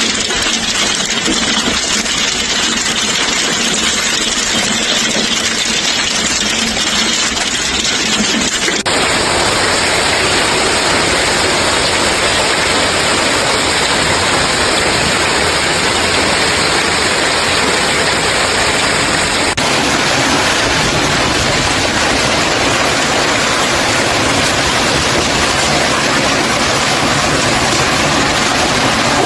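Storm noise: a steady, loud rushing hiss of heavy rain and water, in three stretches that cut abruptly into one another about 9 and 20 seconds in.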